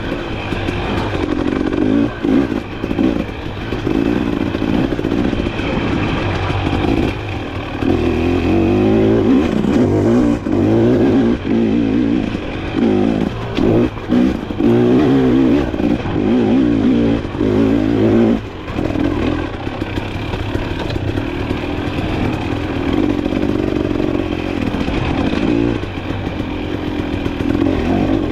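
Dirt bike engine under way on a ride, revving up and easing off again and again as the throttle opens and closes, with short drops in between.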